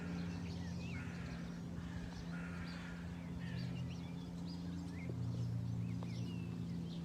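Birds chirping and calling, short quick rising and falling notes scattered throughout, over a steady low hum.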